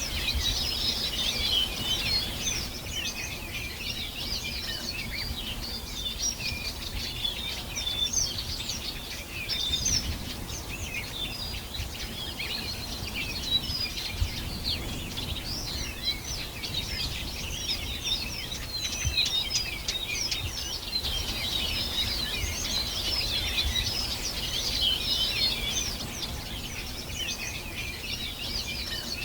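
Many birds singing at once, a dense chorus of overlapping chirps and trills, over a low steady background rumble.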